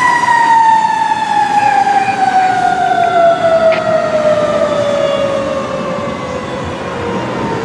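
Fire engine's siren winding down in one long, slow falling wail, its pitch sliding steadily lower.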